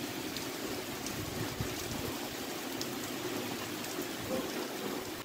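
Heavy monsoon rain falling steadily and splashing on a flooded, muddy yard.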